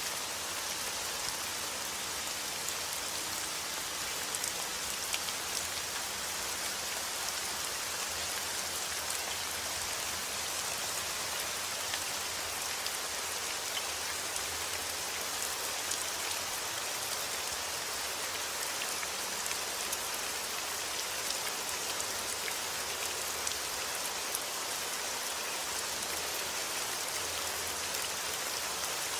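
Heavy rain falling steadily outdoors, an even hiss with scattered sharper drop hits on surfaces.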